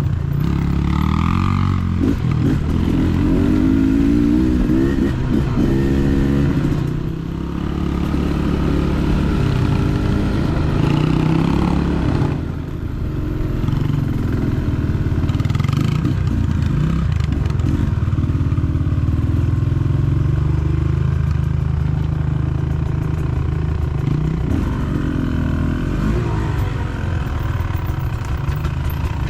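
Dirt bike engine running under way, its pitch climbing and falling as the throttle is worked, with two brief let-offs a quarter of the way and about halfway through.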